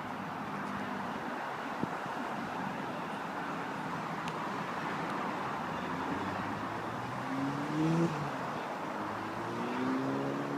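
Car engine noise with a steady rush, and a car engine rising in pitch twice in the second half as it accelerates.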